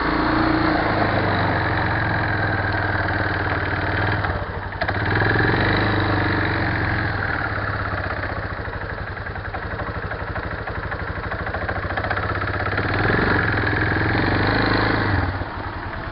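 Caterpillar backhoe loader's diesel engine running steadily. Its note dips briefly about four seconds in, rises again, and drops to a lower idle near the end.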